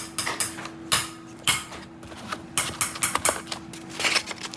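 Finished knives and their packaging being handled: irregular light clicks and taps, a few each second, over a faint steady hum.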